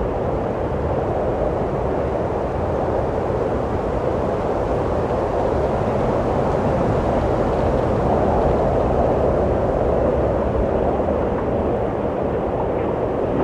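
Steady wind blowing, a continuous low rushing that swells a little about eight seconds in.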